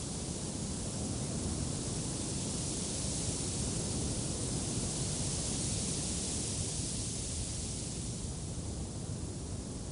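Wind blowing steadily, a rushing hiss that swells for a few seconds in the middle and then eases.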